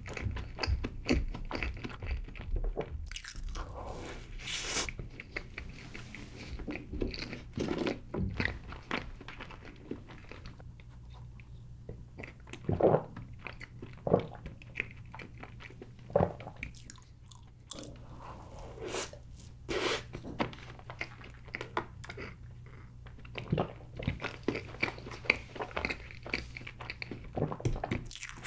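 Close-miked eating: chocolate layer cake being bitten and chewed, a run of irregular soft crunches and mouth clicks.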